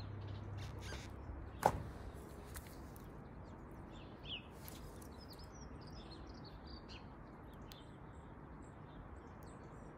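Quiet outdoor background noise with small birds chirping now and then, and a single sharp click a little under two seconds in.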